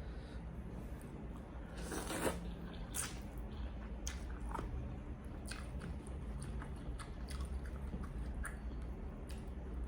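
Close-up chewing and crunching of crispy fried chicken being bitten off the bone, a run of short crisp crunches with the loudest about two seconds in.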